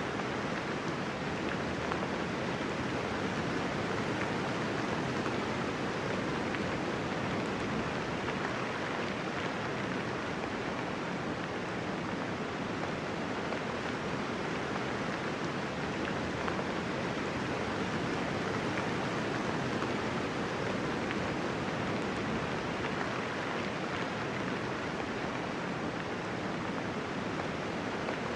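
Steady soft rain falling, a dense even patter with no thunder.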